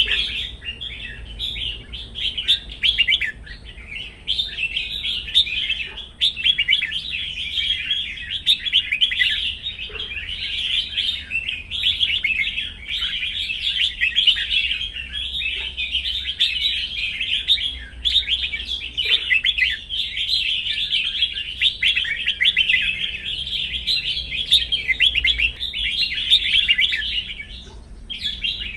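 Red-whiskered bulbul singing without pause, a fast run of bright chirping phrases, with a brief break near the end.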